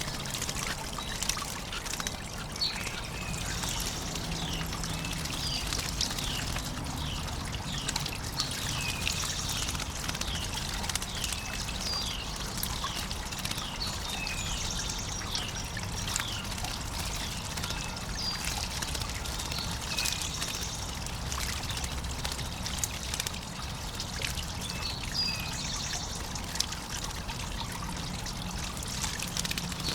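Water trickling steadily into a backyard bird bath, with small songbirds calling over it: a run of short down-slurred chirps, about one a second, that pauses for a few seconds past the middle and comes back near the end.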